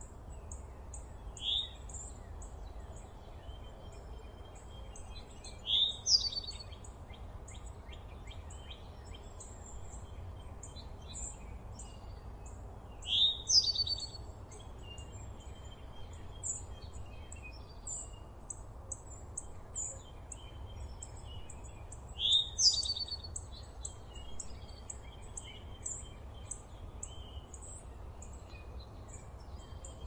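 Small birds chirping, with a steady stream of short, very high chirps and a louder sweeping song phrase three times, about 6, 13 and 22 seconds in. Under them runs a steady low background rumble.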